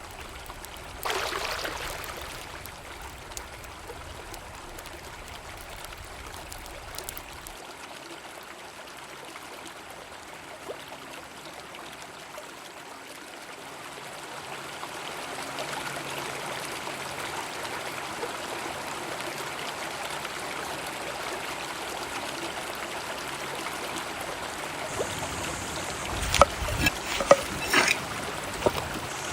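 Flowing river water, a steady rushing that grows a little louder partway through. There is a brief noisy burst about a second in and a few sharp knocks near the end.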